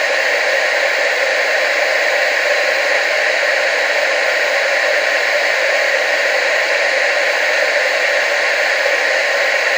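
Television static: a loud, steady hiss, strongest in the mid and upper range with almost no bass, unchanging throughout.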